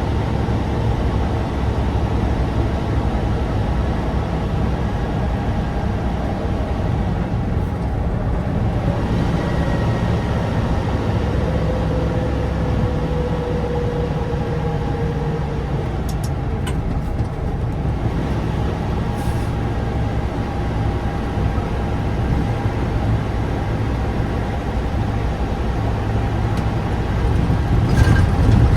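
Tatra 815's air-cooled, naturally aspirated V10 diesel running steadily under way, with a whine that slides slowly down in pitch about halfway through and a brief louder surge near the end.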